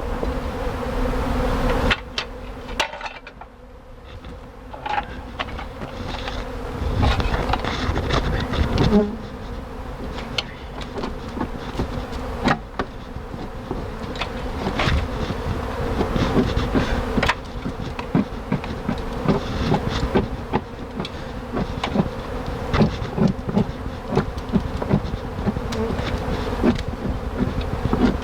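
Honey bees from a large open colony buzzing close to the microphone in a steady hum, with frequent short knocks and bumps of handling throughout. The hum drops away for a few seconds near the start, then returns.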